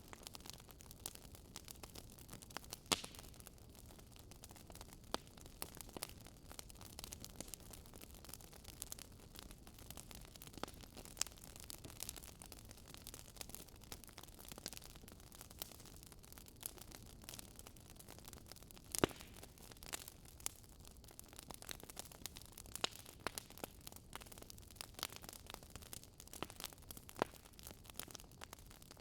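Wood fire crackling in a fireplace: a soft steady hiss with irregular sharp pops and snaps, a louder pop about three seconds in and another near the middle.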